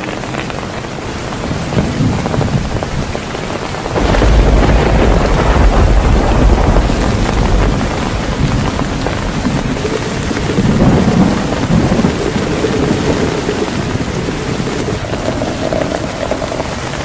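Heavy rain falling steadily, with thunder: a loud low rumble breaks in about four seconds in and lasts several seconds, and lighter rolls of thunder follow later.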